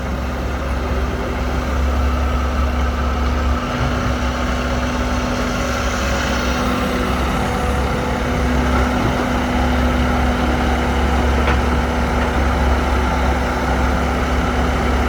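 Heavy diesel engine running steadily at a low, even pace, with a constant low hum.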